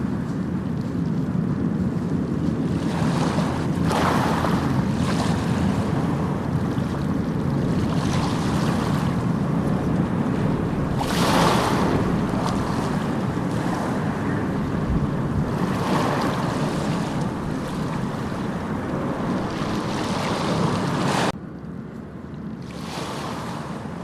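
Small waves washing onto a sandy beach: a steady surf hiss that swells every few seconds as each wave breaks, with wind on the microphone. About three seconds before the end the sound drops suddenly to a quieter wash.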